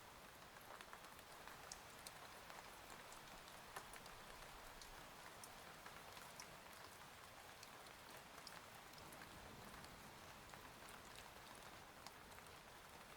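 Faint, steady rain, with many small scattered drop ticks.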